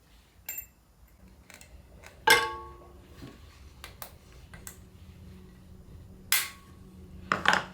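Sharp metal clicks and clinks of a steel thrust washer and circlip being fitted and tried on a Land Rover Series gearbox shaft, checking a washer thickness for end play. The loudest click comes about two seconds in and rings briefly.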